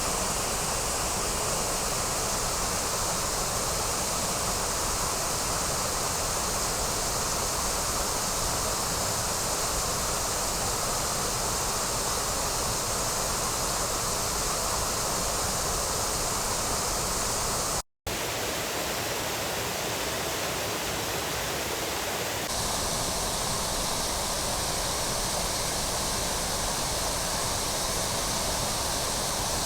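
Waterfall on the Trevillet River: a steady, loud rush of falling water, broken by a split-second dropout about eighteen seconds in.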